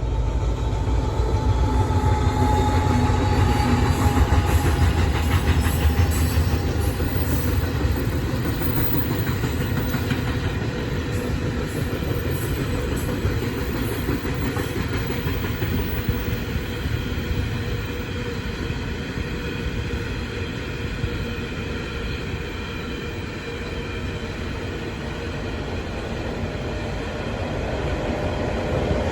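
A train passing close by on the track: a loud, steady rumble with whining tones that slide in pitch during the first several seconds, lasting about half a minute.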